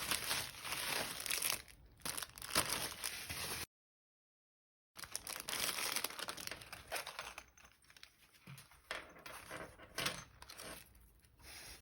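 Packaging being unwrapped by hand: crinkling and tearing in irregular bursts, broken by about a second of total silence a little under four seconds in.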